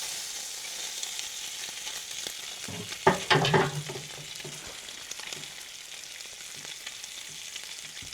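Food sizzling in a pan over a campfire, a steady hiss with fine crackles. About three seconds in there is a short, louder scrape or clatter.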